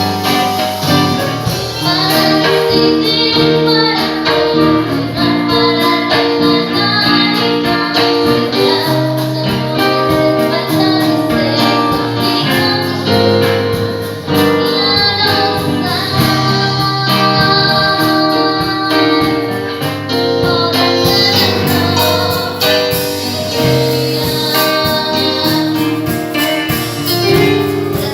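A girl singing a song over instrumental accompaniment.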